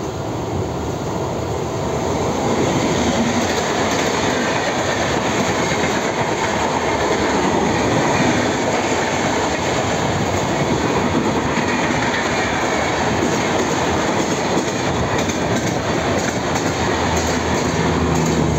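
Passenger trains running on the rails: a steady rumble and clatter of coach wheels over the track, growing louder over the first couple of seconds and then holding, heard from beside a moving train as a long train of LHB coaches passes on the next track.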